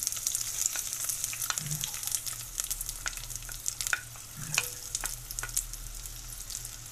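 Sliced onions sizzling as they go into hot coconut oil in a clay pan, with scattered clicks and scrapes of a spatula pushing them in from a glass bowl.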